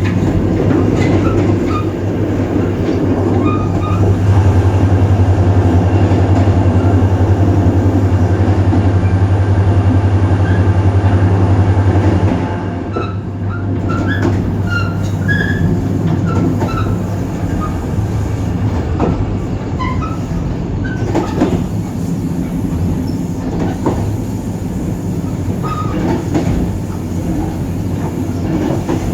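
EMD GT26CW-2 diesel locomotive's two-stroke V16 engine running hard under load, a steady deep drone that grows louder about four seconds in. About twelve seconds in the engine sound drops away sharply, leaving the rumble of the train on the rails with brief wheel squeals and clicks.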